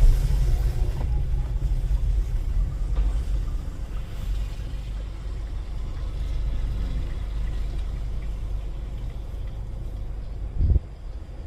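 Car running at low speed, a steady low rumble of engine and road heard from inside the cabin, with a brief low thump near the end.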